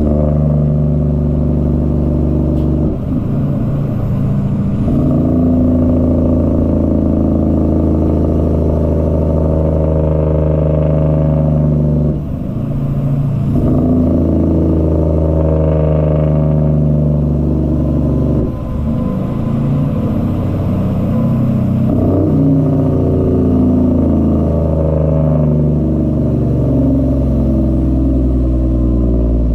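Cummins ISX diesel in a Peterbilt 379 truck running under way, a steady low engine note. The note dips and breaks briefly three times, at about 3, 12 and 18 seconds in, then picks up again.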